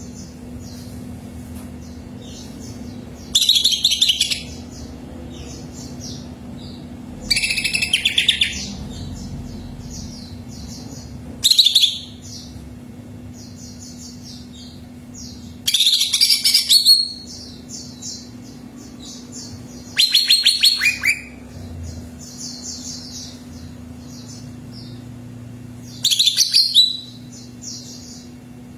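Cucak ijo (green leafbird) singing: six loud, high-pitched bursts of song a few seconds apart, with fainter chirping between them. A low steady hum runs underneath.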